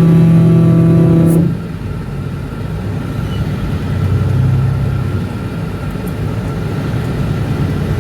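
A loud, steady pitched tone cuts off suddenly about a second and a half in. After it comes the low, uneven rumble of road vehicles and engine, swelling briefly around the middle.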